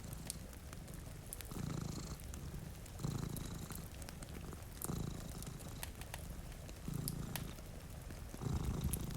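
Domestic cat purring close up, the purr swelling with each breath about every one and a half to two seconds. Sharp crackles from a wood fire sound over it now and then.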